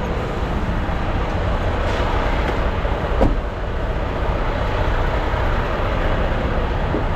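Heavy diesel truck engine idling steadily, a constant low rumble.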